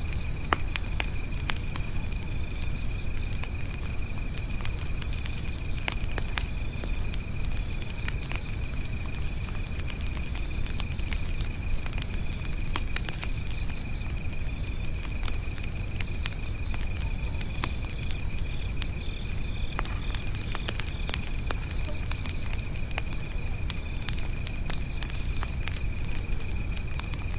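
Campfire crackling with scattered sharp pops, while insects chirp in a high pulse repeating about every second and a half.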